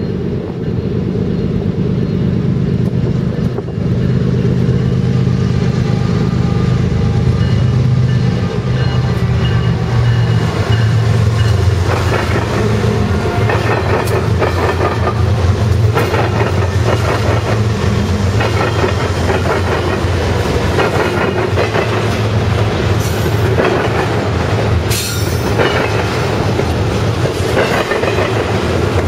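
BNSF diesel-electric freight locomotives approach with a loud, low, steady engine drone and pass close by. They are followed by double-stack intermodal container cars rolling past, their wheels clicking rapidly over the rail joints.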